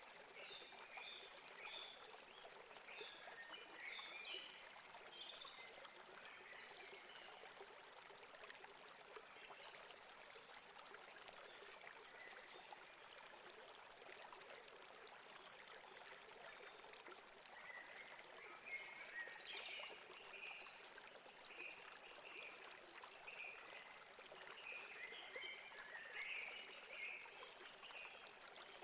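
Faint, steady rush of flowing river water, with small birds chirping on and off. The chirps come in busy clusters in the first few seconds and again from about two-thirds of the way through.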